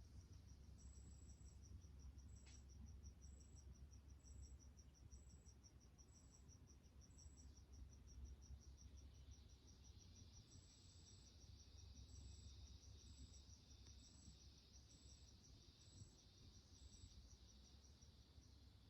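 Faint insect chorus of crickets: one chirps in a rapid, even pulse while another, higher-pitched one gives a short chirp a little under once a second, pausing briefly about halfway through. A faint low rumble lies underneath.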